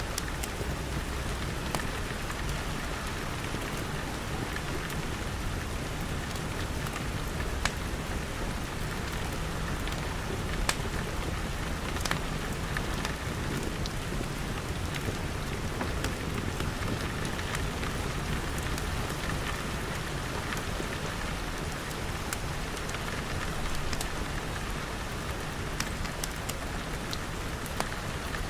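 Steady rain pattering on glass, with scattered sharp pops and crackles from a wood fire over a deep, even rumble.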